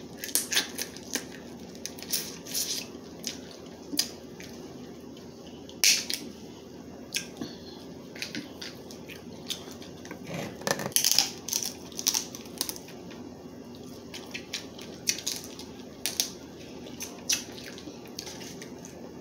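Close-miked crab-leg eating: irregular sharp snaps and crackles of shells being cracked and picked, with chewing, some strokes much louder than others.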